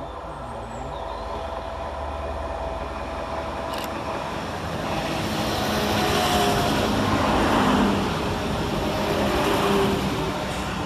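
Northern Class 195 diesel multiple unit running into the station. Its engine and wheel noise builds to a peak as it draws alongside, then eases toward the end.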